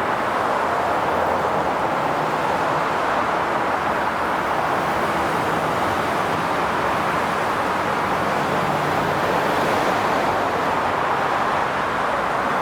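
Steady highway traffic: a continuous wash of tyre and engine noise from passing cars, swelling slightly as vehicles go by.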